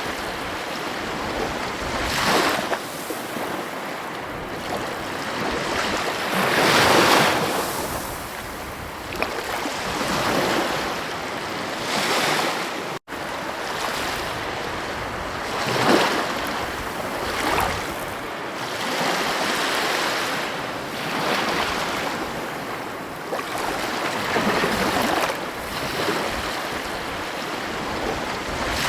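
Ocean waves breaking on a beach, a steady wash that swells into a surge every few seconds, with one brief dropout to silence about 13 seconds in.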